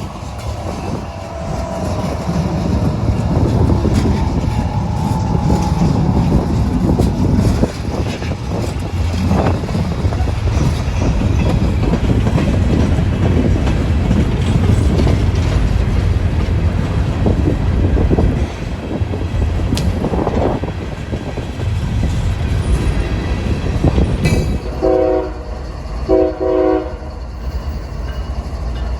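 Diesel locomotives of a CSX empty coal train running with a heavy, steady rumble. Near the end a locomotive air horn sounds two short blasts.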